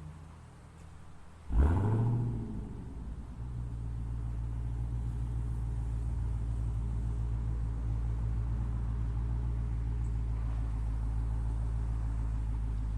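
Dodge Charger V8 with a Borla Atak stainless cat-back exhaust starting up. About a second and a half in, the engine flares up loudly, then settles into a steady, low idle rumble.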